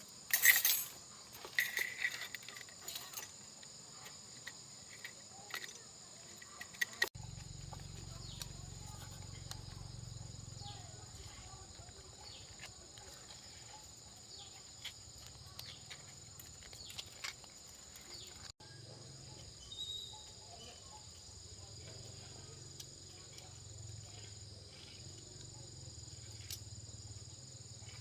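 Insects chirring in a steady high drone, with scattered clicks and knocks, the loudest in the first seconds.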